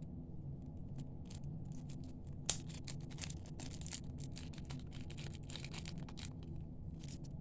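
Faint clicks and light scratchy handling noises of small jewelry-making parts, a magnet clasp, crimp beads and beading wire, being picked up and handled, with one sharper click about two and a half seconds in, over a steady low hum.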